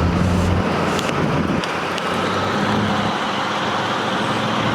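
Truck engine running close by as the truck manoeuvres out of a yard: a steady low engine drone over traffic noise, easing in its lowest part about half a second in, with a few light clicks.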